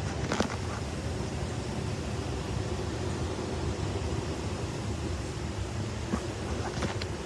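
2020 Goodman furnace's blower running steadily, a low hum and rush of moving air while it circulates air for the air conditioning, with a couple of light knocks over it.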